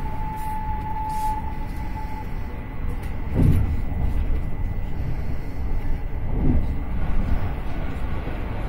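Intercity passenger train running, heard from inside the carriage: a steady rumble of wheels on the rails, with two louder low surges about three and a half and six and a half seconds in.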